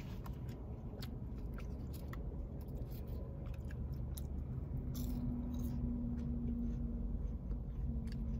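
Close-miked chewing of French fries, with soft wet mouth clicks, over a steady low rumble. A low steady hum holds for about two seconds midway and briefly again near the end.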